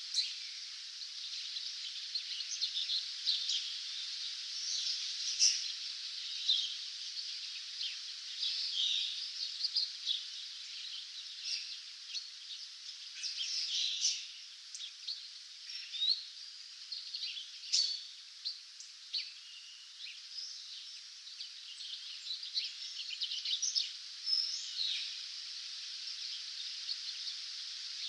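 Several small songbirds singing and chirping in a dawn chorus: many short high notes, some trilled, coming thick and fast over a steady hiss.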